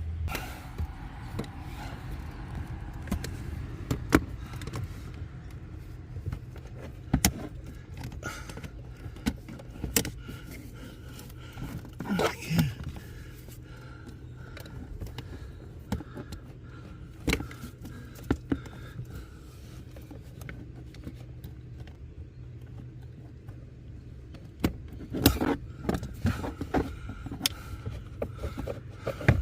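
Scattered clicks, taps and rattles of plastic and metal as the Navara D40's air-conditioning blower fan is worked loose from its housing, with a cluster of louder knocks near the end. A steady low hum runs underneath.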